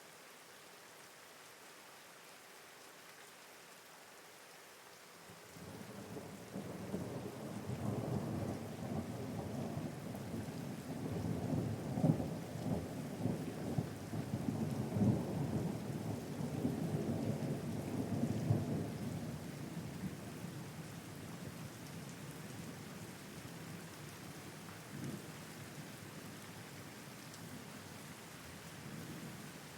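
Steady rain hiss, joined about five seconds in by a long, low rolling rumble of thunder that builds, peaks near the middle and slowly fades away.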